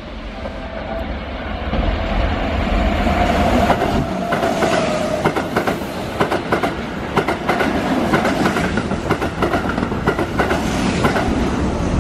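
A Keihan 3000 series electric train passing close by. A whine rises and fades as it approaches, then its wheels clatter in quick succession over the rail joints and points until the last car has gone.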